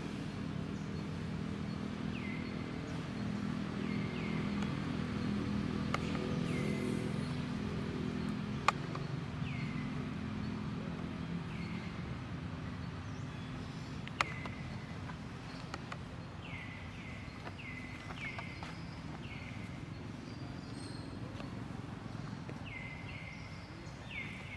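An animal chirping: many short high chirps, each falling in pitch, repeated irregularly over a steady low rumble, with a few sharp clicks.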